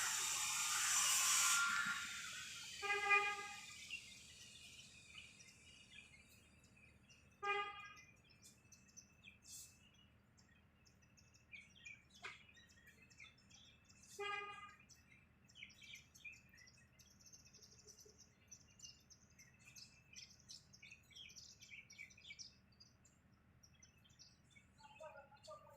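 Birds chirping faintly, with three short pitched honk-like calls about 3, 7 and 14 seconds in, and a louder noise fading out in the first two seconds.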